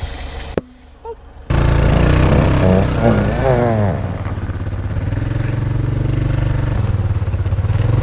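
An off-road vehicle's engine running steadily; it comes in abruptly about a second and a half in after a short quiet stretch, with a wavering pitched sound over it for about two seconds.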